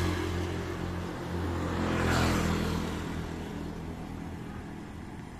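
A motor vehicle passes close by, its engine hum and tyre hiss swelling to a peak about two seconds in. The sound then fades away as it moves off.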